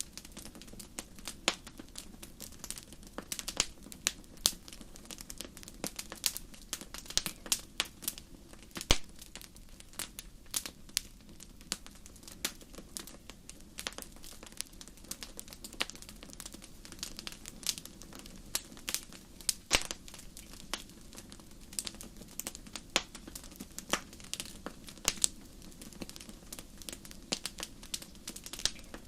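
Wood fire burning in a fireplace, crackling with irregular sharp pops and snaps, several a second, over a low steady noise of the flames.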